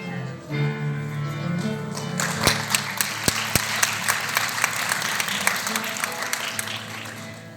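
Audience applauding over instrumental background music; the clapping starts about two seconds in and fades out near the end, while the music carries on underneath.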